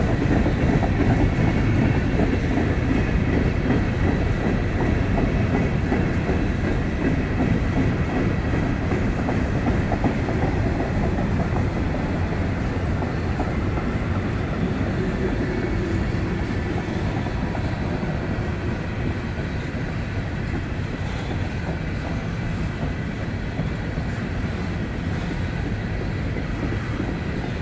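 Empty steel coal hopper cars of a freight train rolling past, their wheels rumbling and clattering on the rails, the sound slowly growing quieter.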